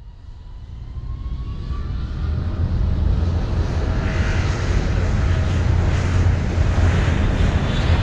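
Drone's motors and propellers humming steadily during takeoff, with a rushing noise over it. It grows louder over the first three seconds, then holds steady.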